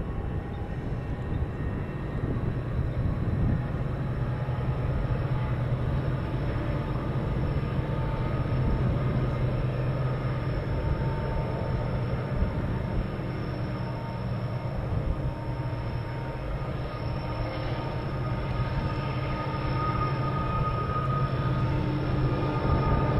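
Steady low rumble of a vehicle in motion, with a few faint steady tones above it.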